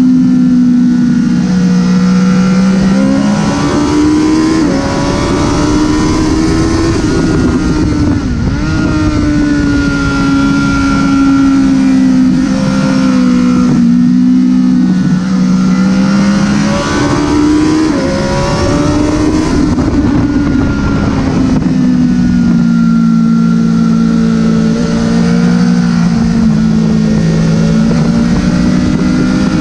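Honda CBR1000RR's inline-four engine running hard around a race track, its pitch rising under acceleration and dropping back several times on gear changes and braking, over a steady rush of wind noise.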